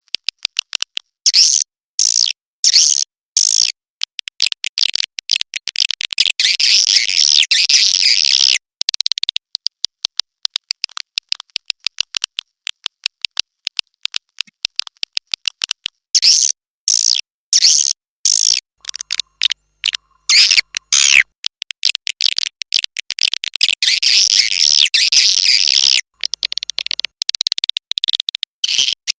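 Swiftlet lure call track: rapid trains of sharp clicks and high twittering chirps of swiftlets in repeated bursts, broken by short silences, the kind of recording played in swiftlet houses to draw the birds in to nest.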